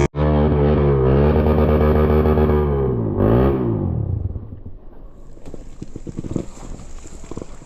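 Off-road motorcycle engine running at a steady high rev, then dropping off about three seconds in, with one short throttle blip before it fades away. Faint scattered knocks follow near the end.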